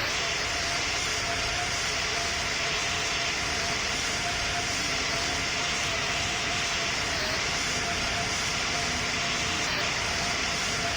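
Airbus A220 in flight, heard from on board: a steady rush of airflow and engine noise with a faint constant tone, holding the same level throughout.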